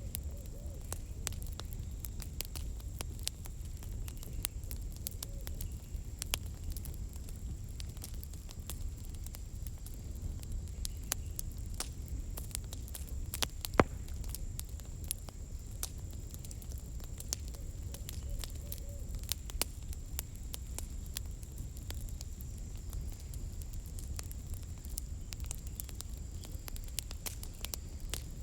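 Campfire crackling: irregular pops and snaps of burning firewood over a low steady rumble, with one louder pop about halfway through.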